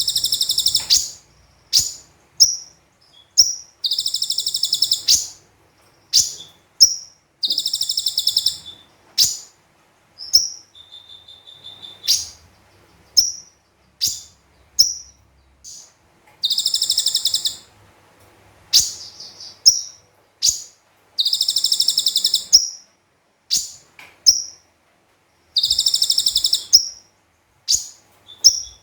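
Konin (kolibri ninja) sunbird singing: about six high, rapid trills, each lasting about a second, with short sharp chirps between them.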